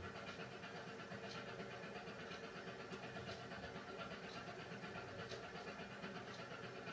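Beko washing machine running a hand wash cycle: a steady hum from its ProSmart inverter motor, with soft swishes of water and laundry about once a second as the drum turns gently.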